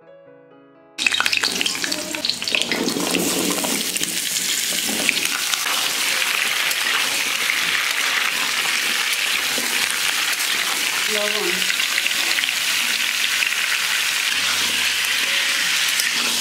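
Food frying in hot oil in a pan: a steady sizzle that starts about a second in and carries on unbroken.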